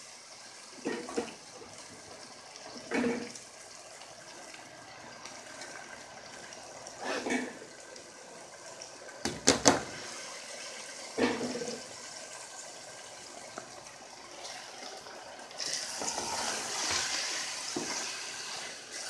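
Radish and fenugreek sabzi sizzling steadily in oil in a metal pot: the water has cooked off and the vegetables are frying in the oil. A few knocks and scrapes of a wooden spoon on the pot come through it. The sizzle grows louder for the last few seconds as the pot is stirred.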